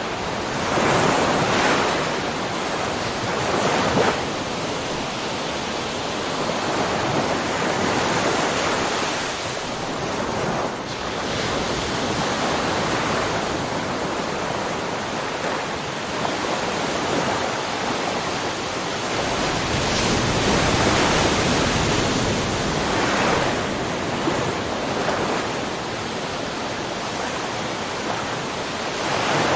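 Ocean surf washing onto a shore: a continuous hiss of waves that swells and falls back every few seconds, with several louder surges.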